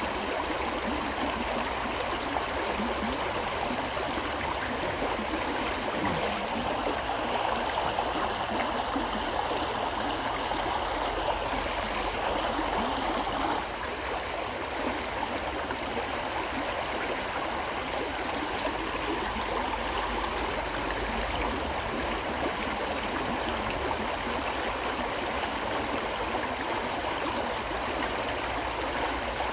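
River water flowing steadily over a shallow bed, a continuous rush of water that dips slightly in level about halfway through.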